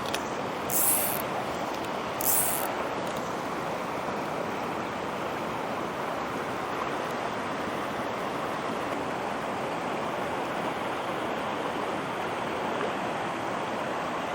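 Mountain trout stream rushing steadily over rocks, with two short high hisses near the start, about a second and a half apart.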